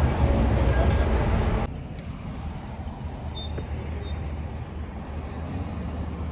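Vehicle engine idling, a steady low rumble. A louder, noisier stretch at the start cuts off abruptly under two seconds in.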